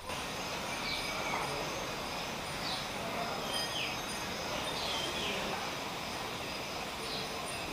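Outdoor ambience: a steady background noise with short bird chirps scattered through it, about half a dozen.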